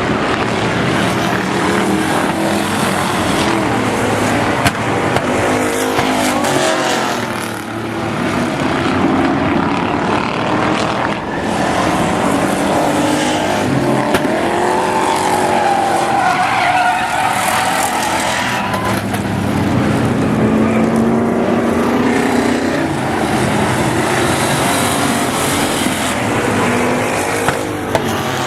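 Several racing engines running hard in a pack, their pitch rising and falling as the cars accelerate and lift, with some tyre squeal and an occasional sharp knock.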